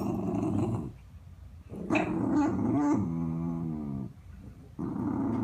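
Dog growling in three low, rough spells, with a drawn-out pitched whine between the second and third.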